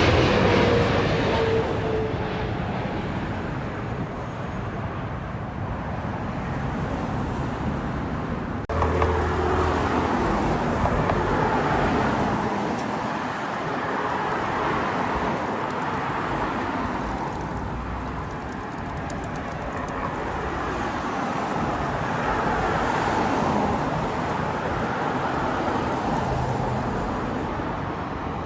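Jet airliner noise on approach, a broad roar that swells and fades, with a falling whine at the start. It breaks off abruptly about nine seconds in and picks up again at a similar level.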